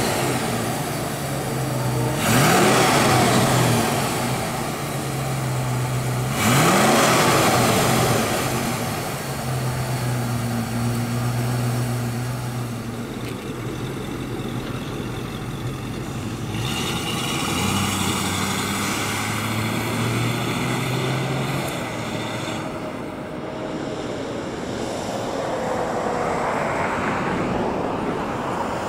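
1979 Mercury Cougar XR7's V8 revved in two quick blips, then idling steadily. Near the end the car pulls away and drives off.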